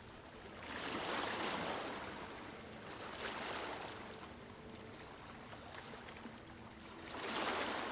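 Sea waves breaking gently on a sandy shore and washing back, in three slow surges: one about a second in, a smaller one around three seconds, and another near the end.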